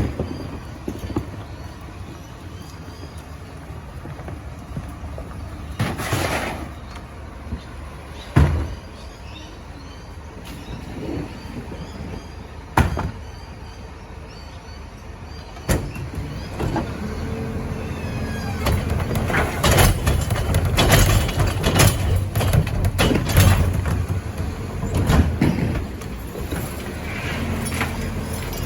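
Garbage truck running, with a series of sharp bangs and knocks. About sixteen seconds in the engine grows louder with a steady low hum, and a quick run of metal bangs follows.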